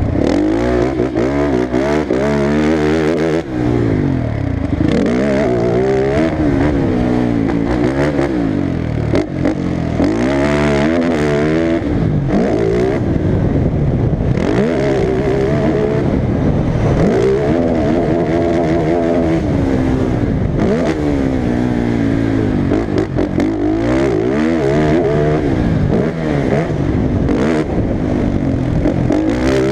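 Racing ATV engine on a motocross track, revving up and falling off again over and over as the throttle is opened and closed, every second or two.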